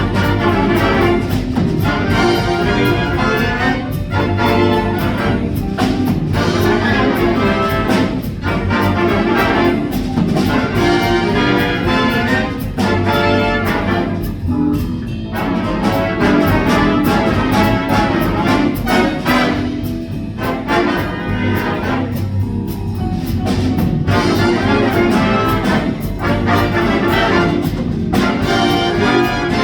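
Big band jazz with the trumpets and trombones of the brass section playing over a steady swing rhythm.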